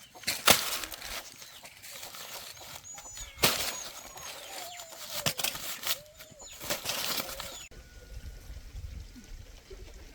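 Chickens flapping their wings in four sudden flurries, with short squawks and high peeps between them. A low steady rumble takes over for the last couple of seconds.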